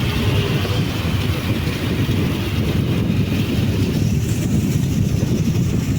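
A boat's engine running steadily, a dense low rumble, with rushing water and wind noise over it.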